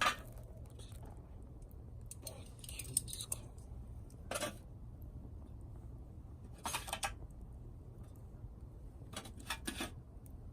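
A few short, scattered clicks and rustles over a low steady hum: about five brief bursts, the first right at the start and the last near the end.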